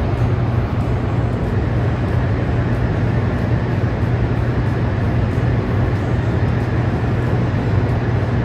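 Hoover Dam power plant's hydroelectric generators and water-carrying machinery running: a loud, deep, steady hum over an even rushing drone, unchanging throughout.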